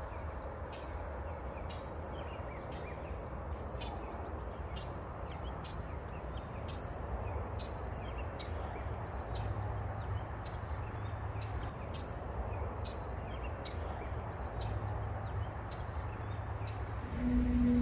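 Outdoor ambience of small birds chirping, short high notes about twice a second, over a low steady rumble. A louder low hum with several tones comes in near the end.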